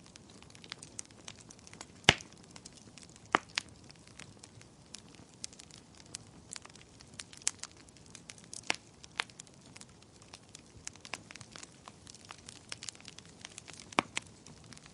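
Wood fire in a fireplace crackling: a steady run of small sharp clicks, with a few louder pops scattered through, over a faint hiss.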